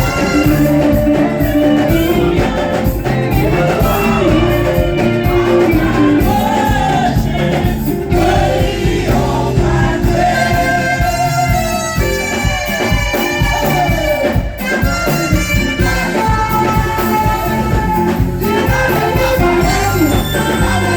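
Live gospel praise music from a band, with singing over a steady beat.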